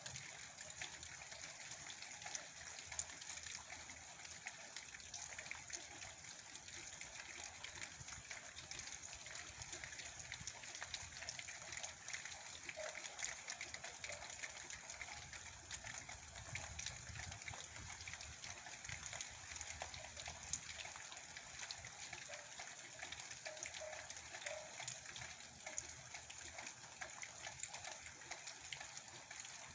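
Steady heavy rain falling, a dense hiss of countless small drop impacts, with a low wind rumble that swells for a few seconds past the middle.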